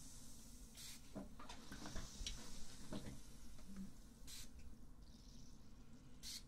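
Quiet close-microphone ASMR sounds: a few brief soft swishes and small crackling clicks and rustles.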